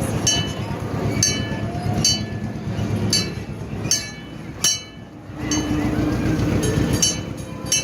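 A bell clanging about once a second, pausing briefly near the middle, over the low rumble of the ride's motor fire truck running along.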